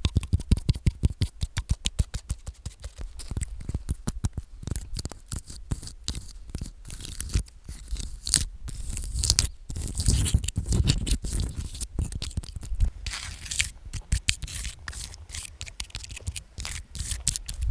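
Long fingernails tapping and scratching close to the microphone: quick sharp taps, several a second, through the first few seconds, then a mix of taps and rasping scratches.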